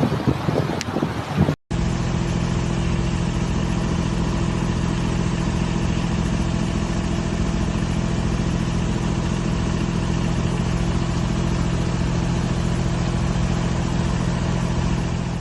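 A steady engine drone with a dense hiss over it, holding even after a sudden cut about a second and a half in.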